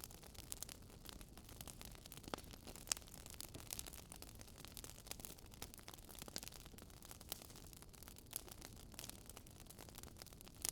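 Crackling wood fire: a faint steady hiss with scattered, irregular sharp pops and snaps of burning logs.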